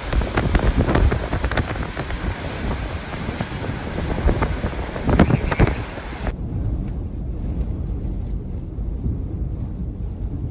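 Hurricane wind gusting hard against the microphone, a heavy rumbling rush with sudden gust spikes. About six seconds in the sound changes abruptly to a duller, low rumble.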